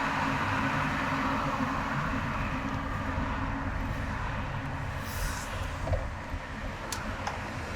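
Steady road and tyre noise of a car driving in highway traffic, easing a little after a few seconds. A short hiss comes about five seconds in and a sharp click near the end.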